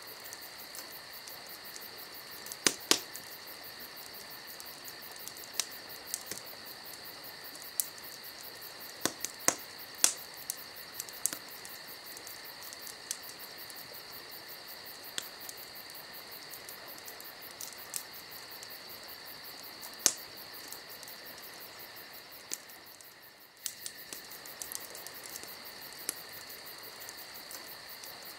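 Crickets trilling steadily, with irregular sharp pops and crackles from a burning wood fire scattered through it. The cricket sound drops out briefly about three-quarters of the way through.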